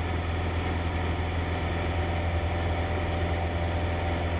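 Cessna 152's four-cylinder Lycoming engine and propeller droning steadily in the cabin during a climb, with a strong low hum and no change in pitch.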